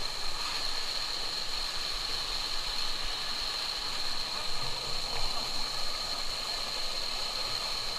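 Stream water rushing and splashing steadily over rocks, with a steady high whine above it.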